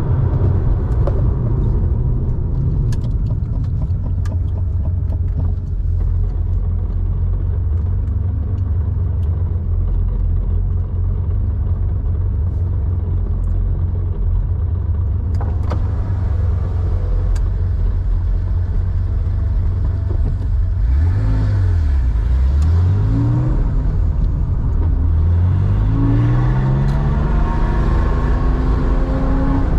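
Air-cooled flat-six of a 1987 Porsche 911 enlarged to 3.4 litres, exhaling through a Scart two-in-one-out muffler, heard on the move: a steady low drone at cruise, then in the last third the revs twice drop and climb again under acceleration.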